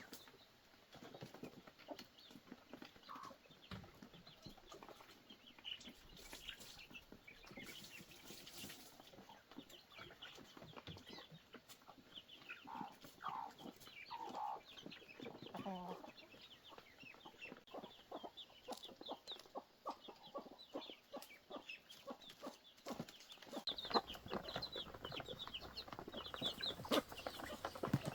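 Chickens clucking, with many short calls and scattered light clicks and knocks.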